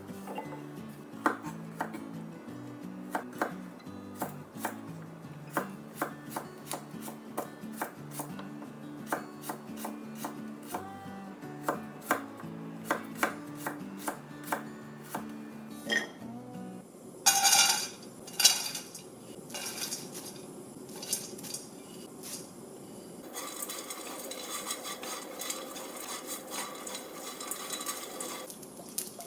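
Kitchen knife cutting on a cutting board, sharp knocks about once or twice a second, over soft background music. About halfway through the music stops, a short loud rattling rush follows, then a steady faint hiss.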